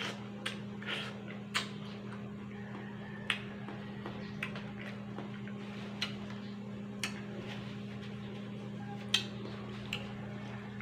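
Mouth sounds of a person biting and chewing melon: short, wet clicks and smacks at irregular intervals, about one a second, over a steady low hum.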